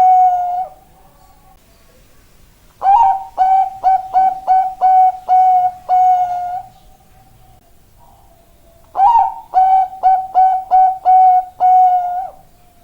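Bangkok-strain zebra dove (perkutut) cooing: the end of one phrase, then two full phrases, each of about nine short clipped coos ending in a longer drawn-out note, with quiet gaps between them.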